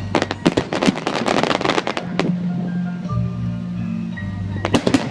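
Fireworks crackling with a dense run of rapid sharp pops for about two seconds, then again near the end, over music played through loudspeakers that comes through plainly in the gap between.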